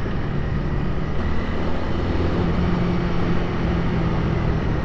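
Honda Rebel 300's single-cylinder engine running at a steady cruise, with steady wind and road noise over the rider's microphone.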